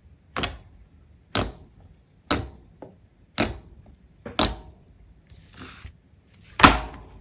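Slime being pressed and worked by hand, giving a sharp snap about once a second, five in a row, then a softer crackle and one louder snap near the end.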